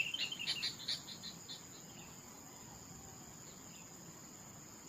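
A rapid high chirping trill that tails off into scattered chirps in the first second or so, over a steady high-pitched insect drone.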